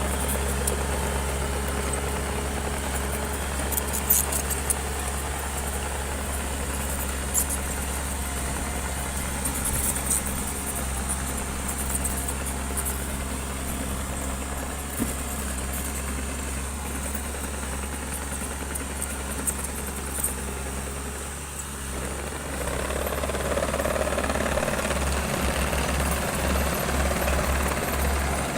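Heavy construction machine's diesel engine running steadily, with a few short metal clanks and rattles; after a brief dip near the end it grows louder, as if working under load.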